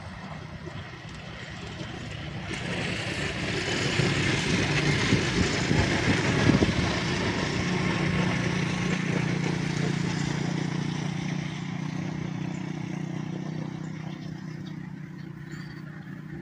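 Diesel-hauled passenger train passing close by: the locomotive's engine hum and the rush of wheels on the rails grow louder, peak with some clatter about five seconds in, then slowly fade while a steady low engine hum carries on.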